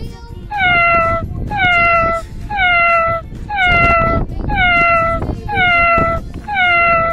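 A cat meowing over and over at an even pace, about once a second, seven times; each meow slides down in pitch and has the same shape.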